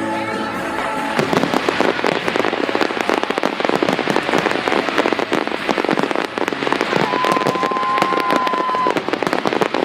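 Fireworks display: from about a second in, dense rapid crackling, many small pops in quick succession. A steady high whistle sounds for about two seconds near the end.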